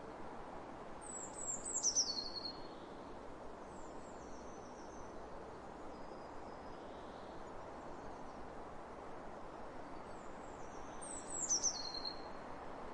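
Wind blowing across open fields as a steady hush, with a bird singing two short high phrases of falling chirps, about two seconds in and again near the end, and fainter chirps between.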